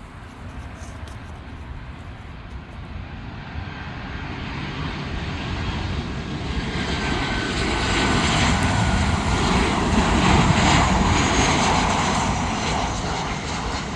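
Southwest Airlines Boeing 737 jet airliner flying past, its engine noise swelling steadily to its loudest about ten seconds in and easing slightly near the end, with a faint engine whine.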